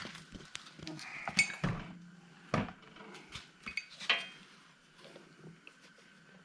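Needle-nose pliers clicking and clinking against a broken piece of spark plug stuck in the plug boot, a few sharp metal clicks spread over the first four seconds.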